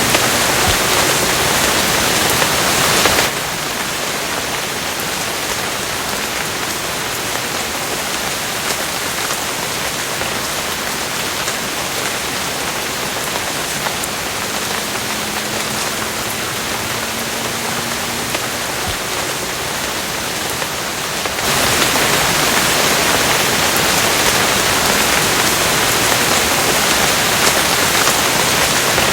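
Steady rain falling as an even hiss. It drops to a softer level about three seconds in and swells back up after about twenty-one seconds.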